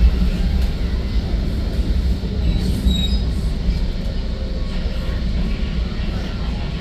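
Metra commuter train running, heard from inside the passenger car: a steady low rumble of wheels on track, with a brief high wheel squeal about three seconds in as the train nears the station.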